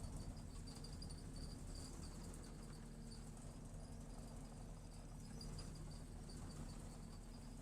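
Insects chirping in a steady high pulsing trill over a faint, steady low engine hum.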